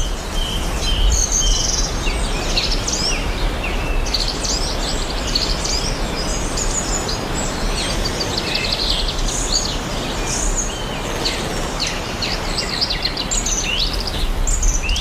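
Several birds chirping and singing at once, many short rapid calls and trills overlapping, over a steady background noise.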